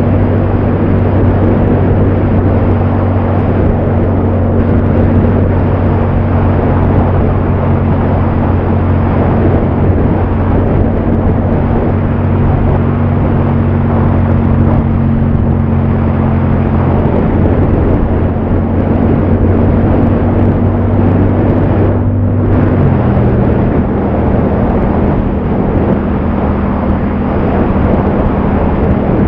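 Yamaha MT-07's parallel-twin engine running steadily at cruise under heavy wind and road noise. About three-quarters of the way through there is a brief break in the sound, and the engine note settles lower after it, as with an upshift.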